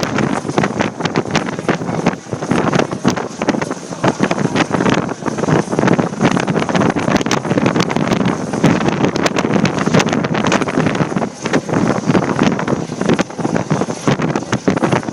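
Strong wind buffeting the microphone: a loud, continuous rush broken by rapid, irregular crackles.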